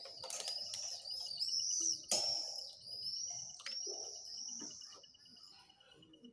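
A songbird singing a quick run of high, arching chirps that fades out near the end, over a steady fast high ticking. A few sharp clicks break in, the loudest about two seconds in.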